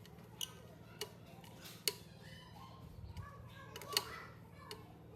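A handful of sharp, irregularly spaced clicks and taps of hard objects, the loudest about four seconds in, over a low steady hum.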